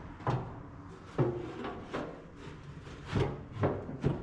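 A string of short knocks and clunks, about six in four seconds, as the pellet box is fitted back onto the side of a Traeger pellet grill.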